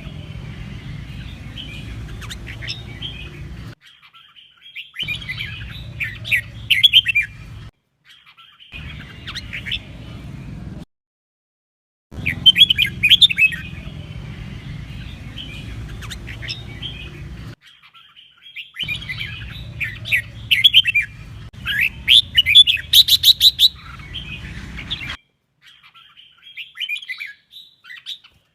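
Red-whiskered bulbul singing loud, bright chirping phrases, in segments that stop and restart abruptly several times, over a low background hum.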